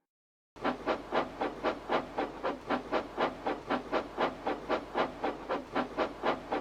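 Steam locomotive chuffing steadily, about three to four exhaust beats a second, starting half a second in over a low steady hum.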